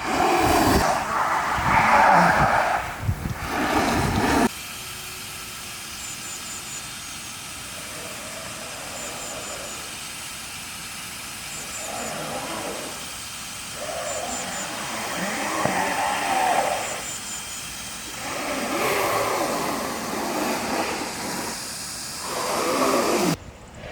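Freeboard wheels rolling and skidding on pavement, coming in several loud scraping bursts over a steady hiss of wind and rolling noise.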